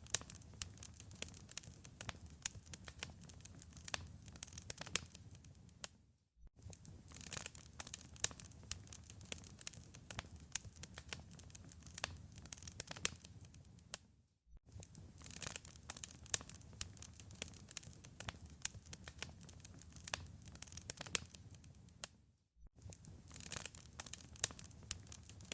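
Wood fire in a fireplace crackling, with frequent sharp pops and snaps over a soft low rumble. The sound drops out for a moment three times, about every eight seconds, where the looped fire recording restarts.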